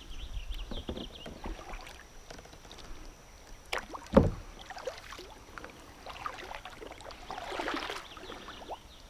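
Kayak being paddled: paddle strokes splashing in the water, with small knocks and one sharp knock about four seconds in.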